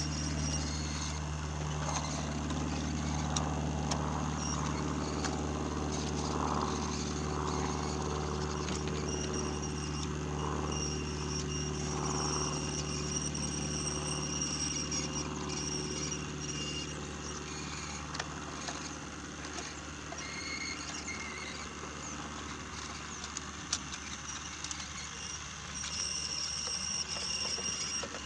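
Battery-powered Brio toy locomotive running along wooden track: a steady motor hum and gear whine with scattered light clicks from the wheels on the track, a little quieter in the second half.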